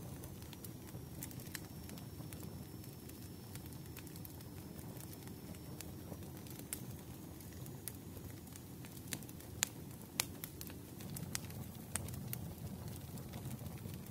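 Wood fire crackling: irregular sharp pops and snaps over a steady low rumble, with two louder pops about ten seconds in.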